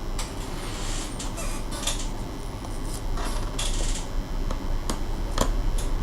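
Small clicks, taps and scrapes of plastic and metal parts being handled as an HP 255 G5 laptop is taken apart, the sharpest click about five and a half seconds in, over a steady low hum.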